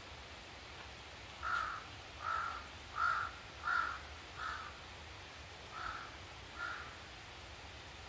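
A bird calling in a run of about seven short, harsh calls roughly 0.7 s apart, the first four loudest and the rest fainter, over a steady rush of mountain stream water.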